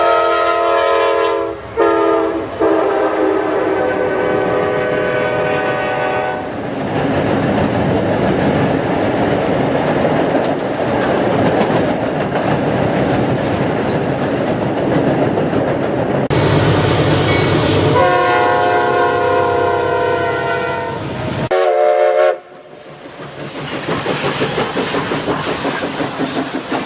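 Diesel freight locomotive sounding its multi-chime air horn in several long blasts with short breaks, then the wheels and cars of the passing freight train rumbling and clacking over the rails, with more horn blasts, one of them short, near the end.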